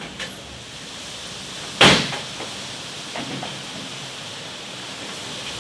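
Steady wind noise that slowly builds, with one sudden loud bang about two seconds in and a few fainter knocks.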